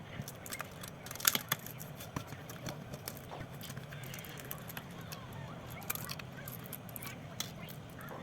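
Irregular small sharp clicks and taps of hand tools on a phone being taken apart, the loudest a quick pair about a second in, over a steady low hum.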